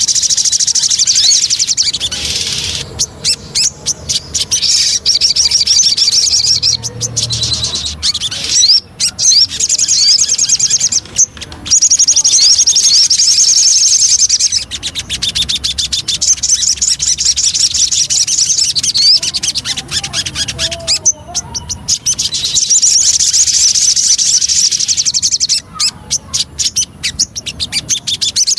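Sogon bird singing continuously: loud, rapid high-pitched trills of many quick notes, delivered in bouts of a few seconds with short breaks between them. It is a lure song recording meant to draw other sogon birds into song.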